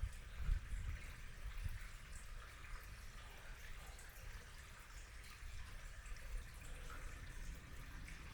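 Wood fire burning in a kamado-style fire pit: a soft steady hiss with faint scattered crackles over a low rumble.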